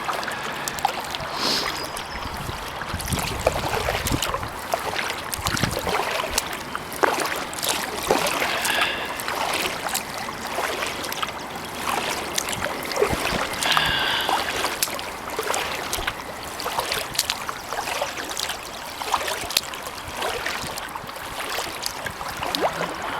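Kayak paddle dipping into pond water stroke after stroke, with splashing and water dripping and trickling off the blades.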